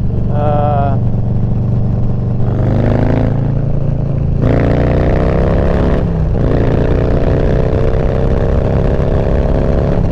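Harley-Davidson V-twin motorcycle engine accelerating on the road, its pitch rising, dropping sharply at upshifts about four and a half and six seconds in, then climbing again.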